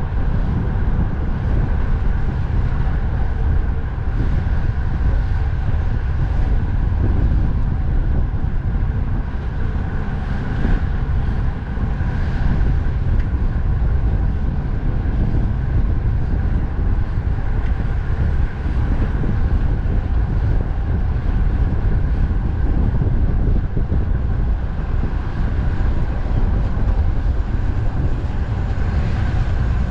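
Steady rush of strong wind on the microphone mixed with the hum of expressway traffic, heard from a moving bicycle.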